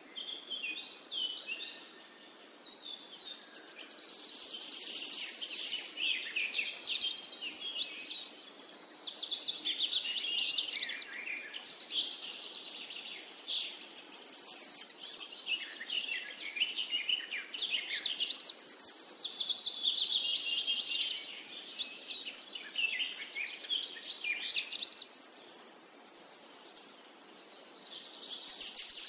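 Birds singing: a dense chorus of quick chirps, trills and whistles gliding up and down in pitch, swelling and fading in waves.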